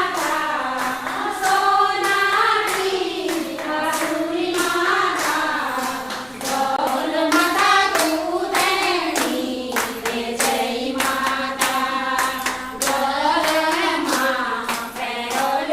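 Several voices singing a devotional song in chorus, with steady rhythmic hand clapping keeping the beat.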